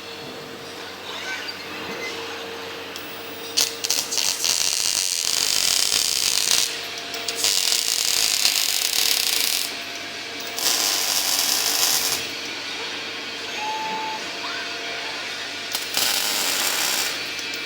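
Robotic arc welding: the arc crackles and hisses in several runs of a few seconds each, switching on and off between welds, over a low steady machine hum.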